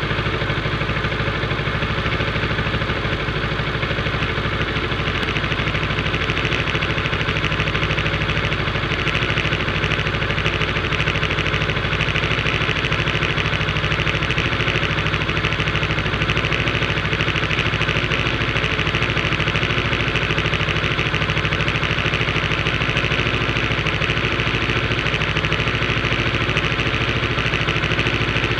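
Motorcycle engine idling steadily at low revs, with no change in pitch.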